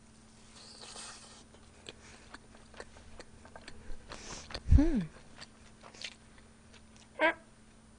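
Close-miked chewing of braised chicken: soft wet mouth noises and small clicks. About five seconds in comes a short, louder hum that falls in pitch, and just after seven seconds a brief vocal sound.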